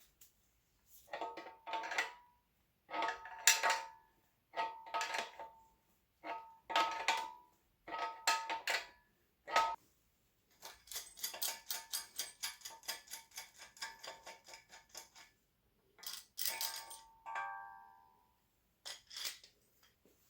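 Metallic clicking in short bursts, each with a ringing tone. Midway it turns to a fast, even ticking of about six to seven clicks a second for several seconds, then a few more ringing bursts follow.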